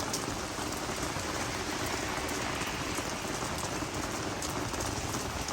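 Steady rain falling on garden vegetables and flowers, an even hiss with many small drop patters.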